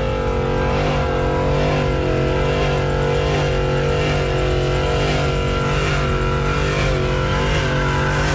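A vehicle engine held at high revs at a steady pitch, with a slight regular wobble about every 0.7 seconds.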